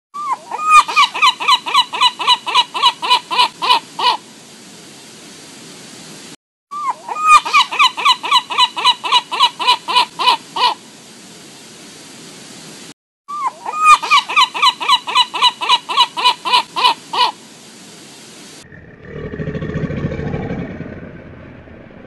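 Gulls giving their laughing long call, a rapid run of loud yelping notes, a little over four a second, heard three times with short pauses between. About 3.5 s from the end a lower, rougher rumbling sound swells and fades.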